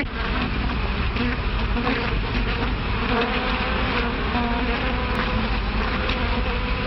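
A swarm of bees buzzing as a film soundtrack effect, a steady, dense drone.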